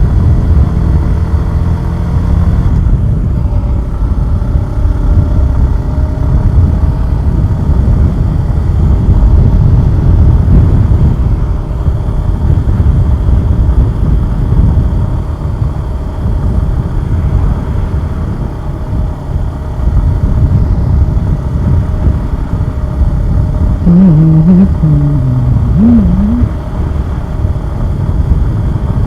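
Suzuki Gixxer 150SF single-cylinder motorcycle engine running under way, heard from the bike with a dense low rush of wind and road noise. Its pitch shifts in the first few seconds. A brief wavering tone that rises and falls comes in near the end.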